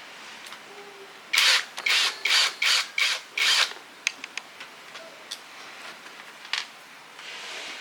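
Six quick rubbing or scraping strokes about a second and a half in, in the manner of hand filing or scrubbing. A few light clicks and taps follow.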